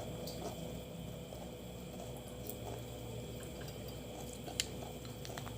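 Faint wet, squishy sounds of eating crab by hand, with scattered small clicks and one sharper click near the end.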